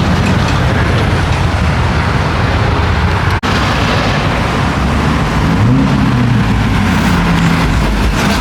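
Loud car engine and road noise, with one engine's pitch rising briefly about six seconds in. The sound drops out for an instant a little over three seconds in.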